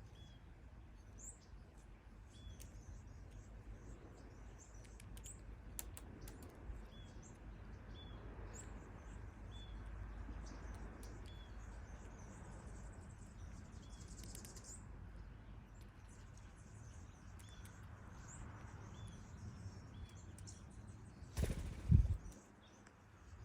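Wild birds chirping outdoors: a short, high chirp repeating about once a second, with fainter higher calls behind it, over a low wind rumble. Near the end there is one loud rustle and thump.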